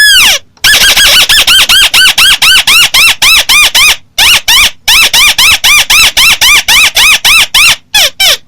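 Loud, volume-boosted recording of the bird call known in Vietnamese as 'chim mắt xéo'. It opens with one longer note, then a fast run of rising-then-falling notes at about five a second, with a brief break near the middle. It ends in a few spaced notes.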